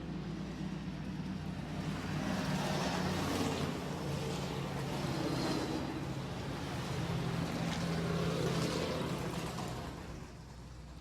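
Super Truck race engines running as the field rolls past under caution, the sound rising and falling in several waves as the trucks go by, then dropping off near the end.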